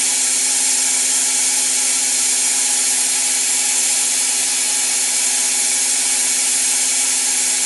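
Cold gas-dynamic spray gun running, its gas jet hissing steadily as it lays metal powder onto a turning steering rack, over a constant low hum.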